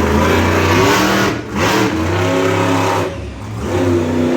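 Monster truck engine revving hard in three surges, the throttle dropping briefly between them.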